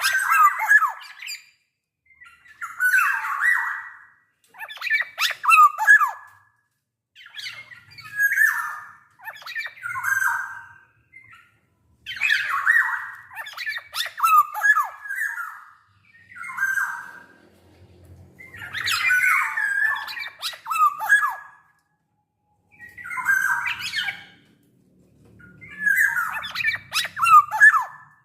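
Black-naped oriole calling: short phrases every two to three seconds, each mixing fluty whistled notes with harsh, scratchy notes.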